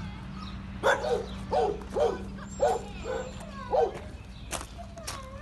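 Shelter dogs barking: about six short, sharp barks in quick succession, followed by a couple of sharp clicks and a brief whine near the end.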